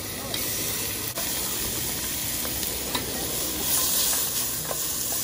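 Lemongrass, grated ginger and leaves sizzling steadily in hot oil in a stainless steel pot, stirred with wooden spatulas, a little louder about four seconds in.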